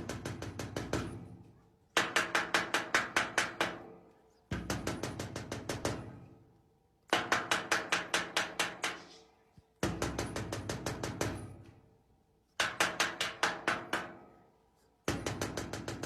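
Rapid bursts of tapping, each about eight to ten quick strikes fading out over a second and a half, repeating about every two and a half seconds with a faint ringing tone.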